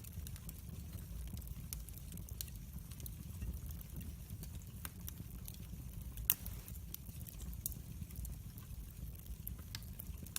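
Log fire burning in a fireplace: scattered sharp crackles and pops over a low, steady rumble of flames, with one louder pop about six seconds in.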